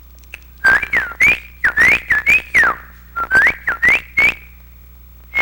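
A person whistling an imitation of the white-rumped shama's song: a run of short notes gliding up and down, a brief pause about three seconds in, then a few more rising notes.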